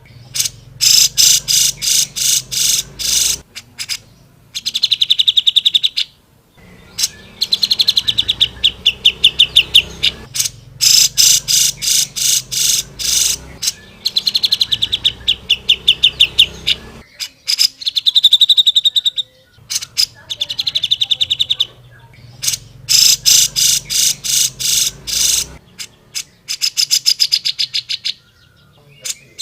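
Grey-cheeked bulbul (cucak jenggot) singing loudly and fast: high, rapid-fire chattering phrases of sharp notes, each a second to three long, repeated with short pauses between them.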